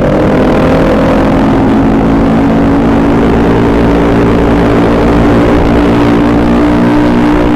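Honda Beat carburettor scooter's engine, freshly rebuilt, running steadily; its pitch rises slightly in the first second, then holds.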